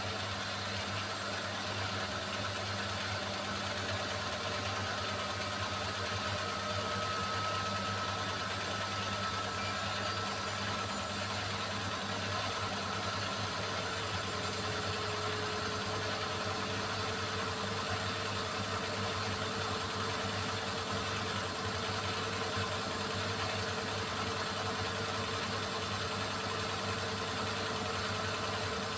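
Beko WMY81283LMB2 washing machine running with a steady motor hum. A fainter whine joins in about halfway and holds.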